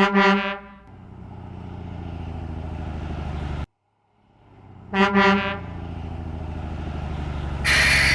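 Truck horn sound effect honking twice, each honk followed by a truck engine running steadily; the first run cuts off suddenly. A short hiss near the end.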